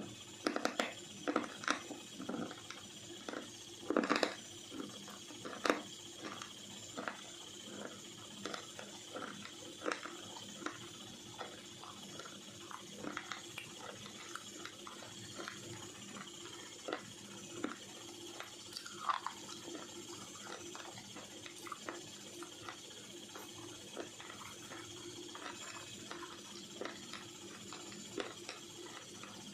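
Slate pencils being bitten and chewed close to the microphone: sharp, irregular crunches and snaps, the loudest in the first six seconds, then smaller crunching clicks of chewing over a steady faint hum.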